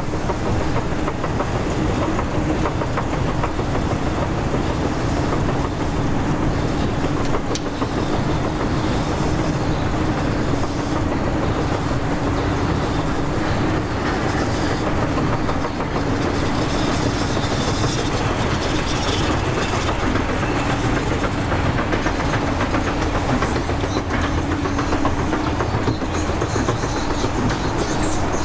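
Steady running noise of a vehicle heard from on board, with a constant low hum under an even rumble.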